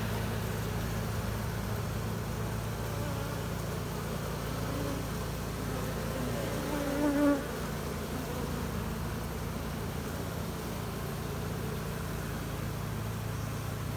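Honey bees buzzing around an opened hive, a steady hum. One buzz swells briefly louder about seven seconds in.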